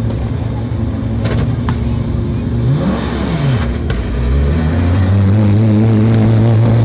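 Rally car engine running at idle, blipped up and back down about three seconds in. From about four seconds in it revs up and is held at steady higher revs, louder.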